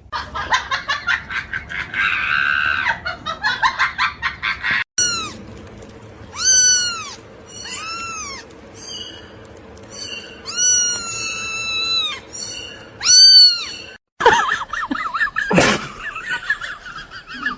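A cat meowing about six times in a row, each meow high and rising then falling. Before it comes a quick run of clicks or taps, and after it a different wavering sound with one loud sharp hit.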